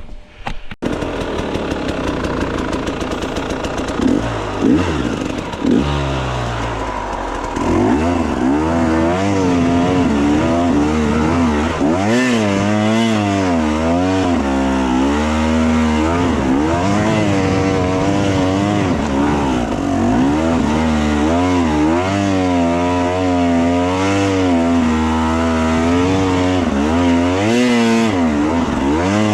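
Enduro dirt bike engine running hard, its revs rising and falling over and over as the throttle is worked on a rough trail.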